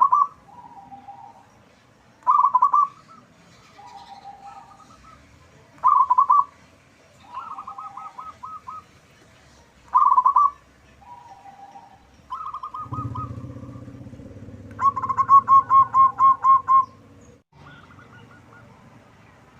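Zebra dove (perkutut) cooing: loud phrases about every four seconds, with fainter, lower coos between them. Near the end comes a longer, rapid run of about ten rolling notes, over a low hum that lasts a few seconds.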